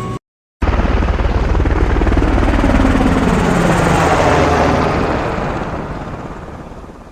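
Helicopter rotor chop with engine noise, a rapid steady beat of the blades, starting abruptly about half a second in, loud, then fading away over the last couple of seconds as it passes.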